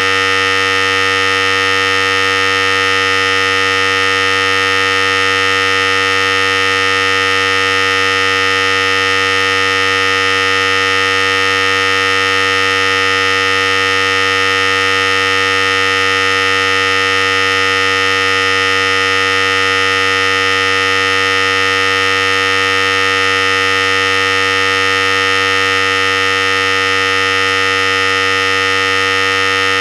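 Philips Series 5000 electric hair clipper running continuously, a steady, unchanging buzz.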